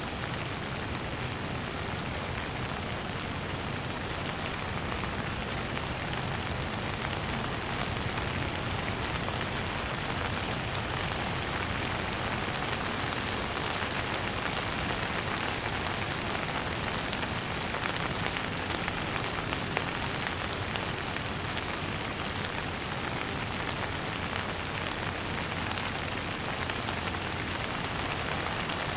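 Steady rain falling, an even, unbroken wash of many drops.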